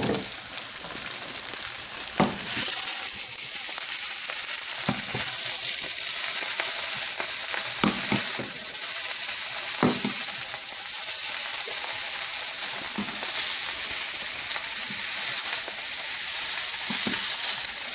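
Fried rice sizzling in hot oil in a pan, louder from about two seconds in, with an occasional knock of the spatula as it is stirred.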